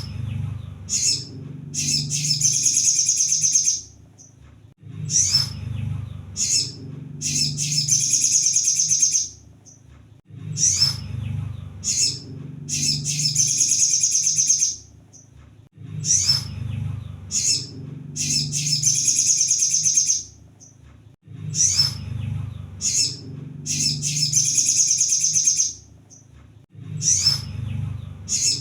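Sunbird (kolibri sogon) song played as a bird-lure track: a few sharp high chips, then a fast, high trill of about two seconds. The phrase repeats about every five and a half seconds.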